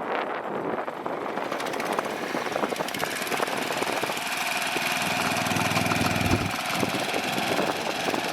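Small gasoline engine running, growing louder about a second and a half in, with a steady whine over the motor noise.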